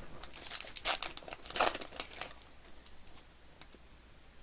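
Plastic trading-card pack wrapper being crinkled and torn open, a quick run of crackles over the first two seconds or so, then only faint handling noises.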